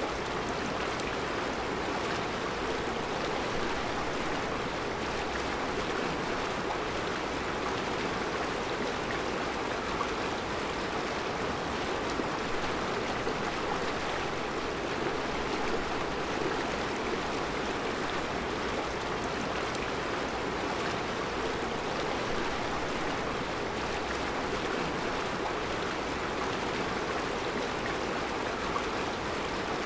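Mountain river flowing over a rocky bed of round stones: a steady, even rush of water with no breaks.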